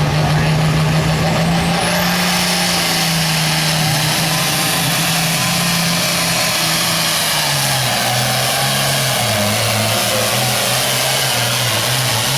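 Pulling tractor's engine running hard under load as it drags the weight sled. The pitch holds steady, then drops and wavers up and down from about seven seconds in.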